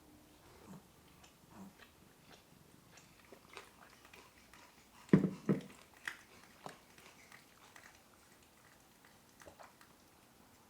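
Close chewing and biting while eating, with small scattered clicks and two short louder sounds about five seconds in.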